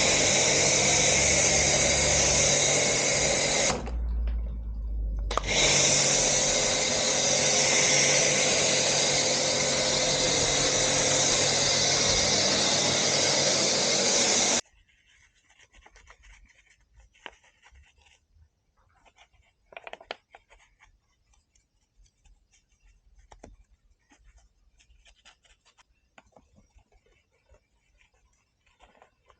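An electric cleaning machine's motor running loud and steady, with a short break about four seconds in, then cutting off suddenly about fifteen seconds in; after that only faint clicks and handling noises.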